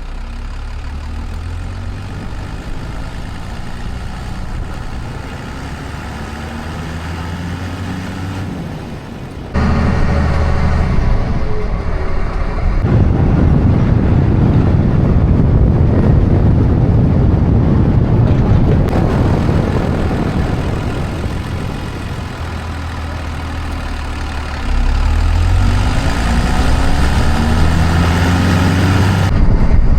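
Motor vehicle engine running and revving, with sudden jumps in loudness about ten seconds in and again near twenty-five seconds, as at cuts between clips. A loud, even rushing noise fills the middle stretch.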